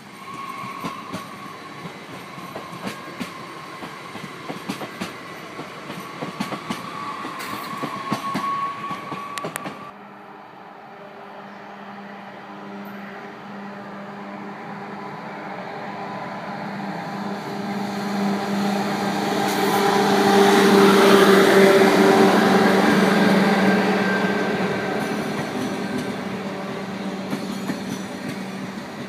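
A regional electric train passing close by, with rapid clicks of its wheels over the rail joints and a steady whine. After a cut about ten seconds in, a Eurostar high-speed train approaches and passes at speed: a steady electric motor whine and a rush of noise that swell to their loudest about two-thirds of the way in, then fade.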